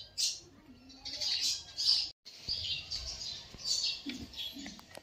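Small birds chirping in short repeated bursts, with a brief gap a little over two seconds in.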